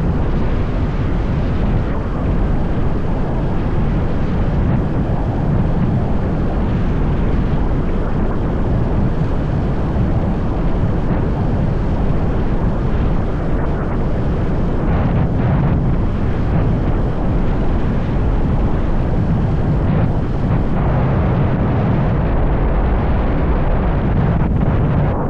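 Steady wind noise on the microphone of a camera on a moving motorbike, over the bike's running and road noise.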